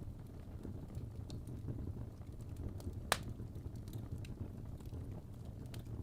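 Wood fire burning in a fireplace: a steady low rumble with scattered small crackles and one sharp pop about three seconds in.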